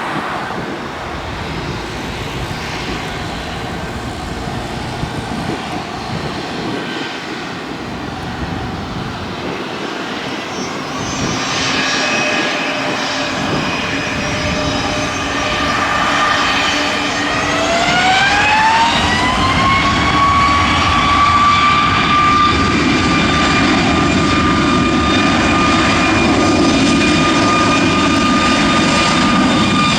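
Boeing 737 MAX jet engines (CFM LEAP-1B turbofans) spooling up. A whine rises in pitch about two-thirds of the way through, then holds steady over a louder rushing roar as the engines settle at high thrust.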